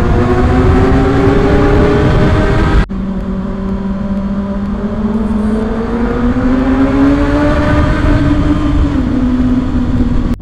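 2024 Kawasaki ZX-6R's 636 cc inline-four engine pulling under throttle, its note climbing steadily. Just under three seconds in it breaks off sharply and comes back lower, then climbs again more slowly and dips a little near the end.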